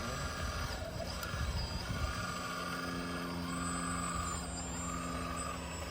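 Radio-controlled model trucks running, with a steady low hum and, from about two seconds in, a repeating beep about once a second like a truck's reversing alarm.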